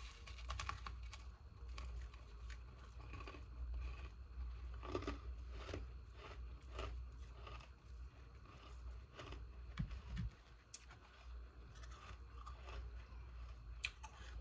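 Ice being bitten and chewed close to the microphone: repeated irregular crunches and crackles of freezer ice breaking between the teeth.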